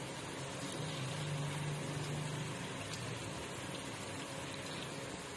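Faint, steady sizzle of onions and ginger-garlic frying in oil in a steel pot as a thick yogurt-masala paste is poured in.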